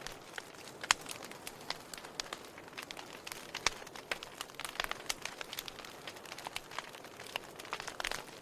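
Wood fire burning, with irregular crackles and pops over a soft steady hiss; the sharpest pops come just under a second in and about three and a half seconds in.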